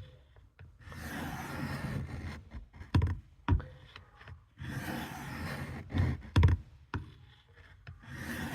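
Steel knife blade drawn in long scraping strokes across a sharpening stone, three strokes of a second or two each, with sharp knocks between them as the blade or sharpener is shifted and set down.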